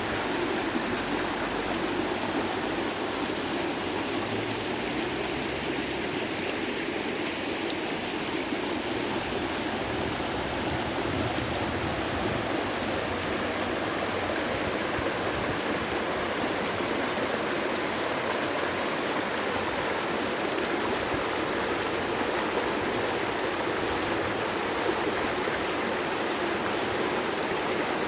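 Running water of a stream or small waterfall, a steady rushing and burbling without a break.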